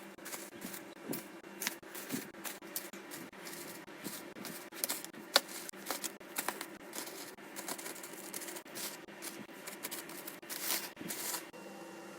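Quick, irregular clicks, taps and knocks of containers and items being handled during refrigerator cleaning and organising. The clatter stops about eleven and a half seconds in, leaving a faint steady hum.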